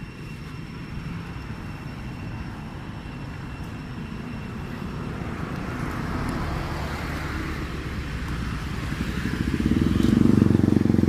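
A motor vehicle engine running, growing steadily louder and loudest near the end as it comes close.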